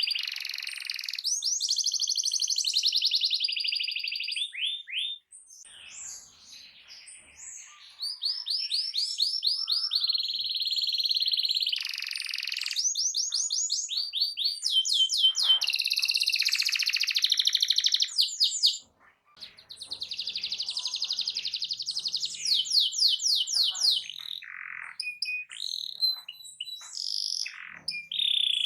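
Canary singing loudly: long rolling trills and fast runs of repeated rising notes. The song dips twice, softer for a few seconds near the start and then a short full stop about two-thirds of the way through.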